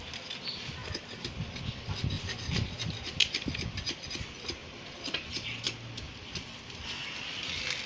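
Irregular knocks, taps and scrapes of wood being handled, with no steady rhythm.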